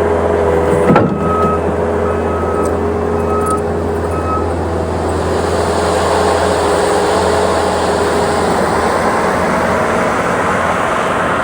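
Engine of a vehicle or piece of machinery running steadily, with four short evenly spaced beeps near the start.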